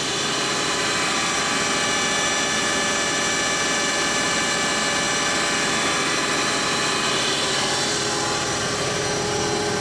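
Spindle drive and gearing of a Lucas 542B-84 horizontal boring mill running steadily at 1200 RPM, a continuous mechanical whir made of many constant tones.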